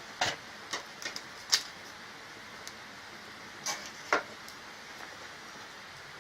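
Burning firewood crackling, with irregular sharp pops, the loudest about one and a half and four seconds in.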